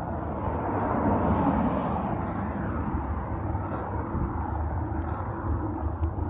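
Steady rumble of wind and road noise picked up by a handlebar-mounted phone on a moving bike, swelling about a second in and easing off again.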